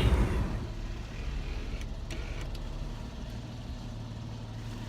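Car engine running, heard from inside the cabin as a low steady hum, with a few faint clicks about two seconds in.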